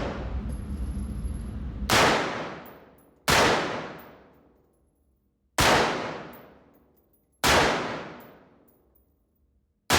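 AK-pattern rifle fired in single shots: four sharp reports spaced one to two seconds apart, with a fifth at the very end, each trailing off in a long echo.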